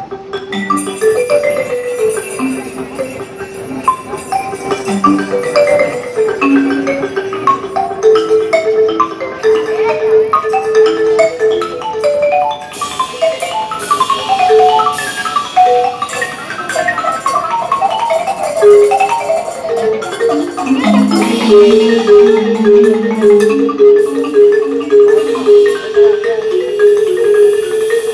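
Percussion ensemble playing a Japanese piece, led by a marimba in short, pitched mallet notes. From about halfway, high metallic shimmering strokes join in, and near the end the notes settle into a fast, steady repeated rhythm.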